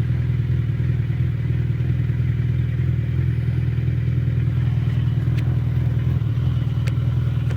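Suzuki Bandit motorcycle's inline-four engine running at a steady pitch while riding.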